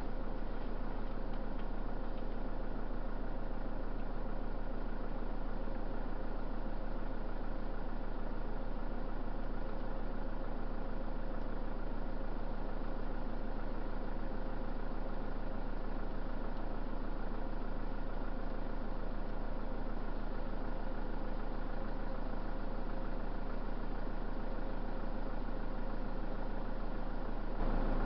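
A car engine idling steadily, heard from inside the cabin, with a small rise in level near the end.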